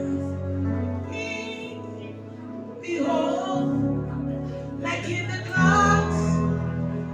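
Gospel worship song: sung phrases over sustained instrumental chords and bass notes.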